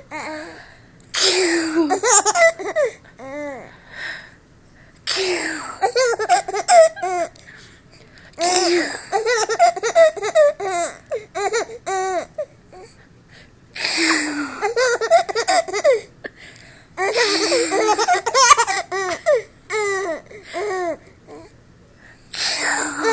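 A baby laughing in about six bouts of high-pitched, rapid giggles, each bout starting with a breathy burst, with short pauses between.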